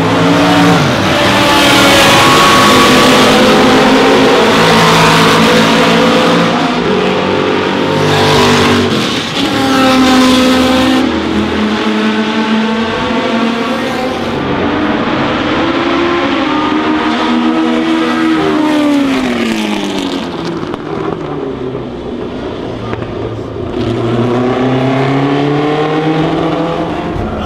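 Several classic Can-Am race cars with large V8 engines going by at speed, one after another. Their engine notes climb and fall with gear changes and passing, with a long drop in pitch about two-thirds of the way through and the revs rising again near the end.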